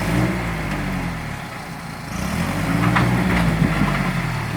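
Off-road vehicle engine running under load while reversing up a rocky waterfall, revving up about twice before settling back.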